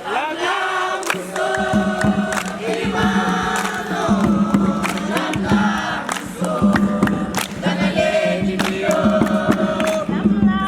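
A group of voices singing a chant-like song together, with sharp percussive hits throughout.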